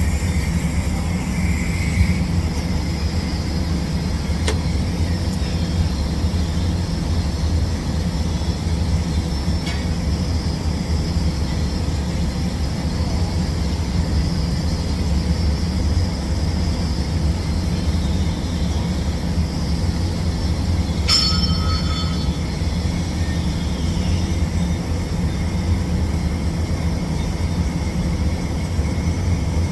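Steady low hum with a faint hiss from a TIG welding setup running during a pipe root pass. A brief high ringing sound about two-thirds of the way through.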